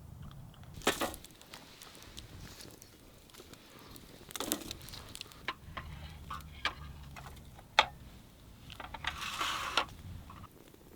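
Scattered clicks and knocks with a few short rustles, as of things being handled at close range. The sharpest knock comes near the middle, and a longer rustle comes near the end.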